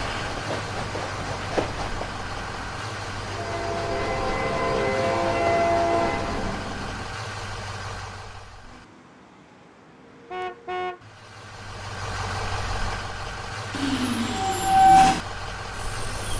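Cartoon truck sound effects: a steady engine rumble, then after a dip in the sound, two quick horn beeps about ten seconds in. The engine noise comes back, with a louder burst a second or two before the end.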